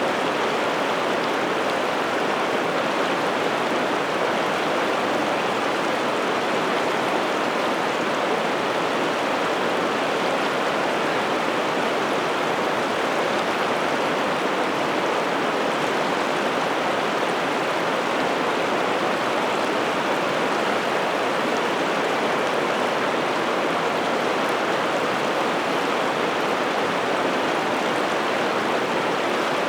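Steady rush of a large river's flowing water, an even, unbroken noise.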